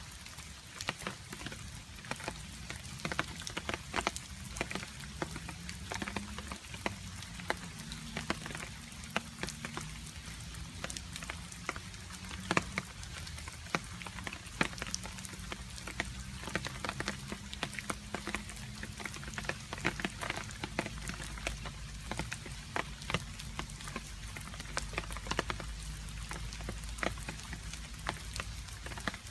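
Rain falling, with water drops dripping and landing in many irregular sharp taps over a steady hiss of rain.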